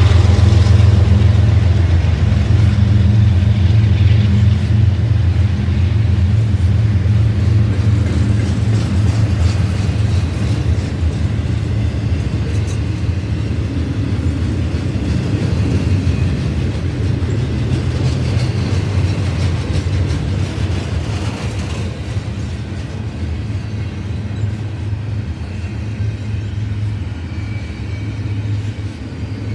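Freight train of double-stack container well cars rolling past, a steady rumble of steel wheels on rail. Over the first dozen seconds the low drone of the mid-train GE ES44AC diesel locomotive fades as it moves away, and the whole sound slowly eases off.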